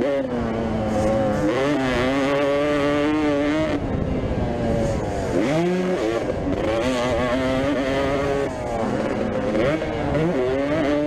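Vintage motocross bike engines racing, revving hard with the pitch climbing and dropping again and again as the throttle is opened and shut and gears change.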